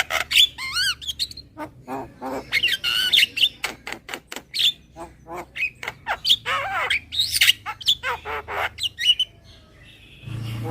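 Javan myna (jalak kebo) calling, the kind of call used as a lure for trapping mynas: a fast, busy jumble of harsh squawks, sharp clicks and whistled notes that slide up and down, dropping to a brief lull near the end.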